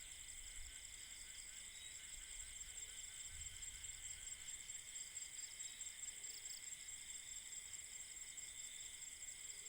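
Faint chorus of night insects, crickets trilling steadily at several pitches at once.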